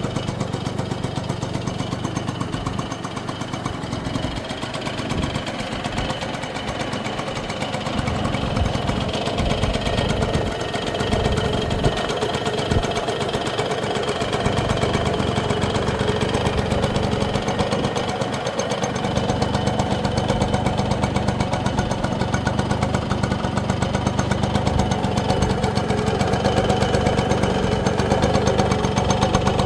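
1966 Yamaha YA6 125cc single-cylinder two-stroke motorcycle engine idling steadily with a rapid, even beat, running sweetly.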